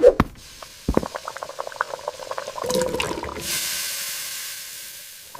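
Cooking sound effects: a couple of sharp knocks, then a run of small bubbling pops, then a steady hiss of steam that slowly fades.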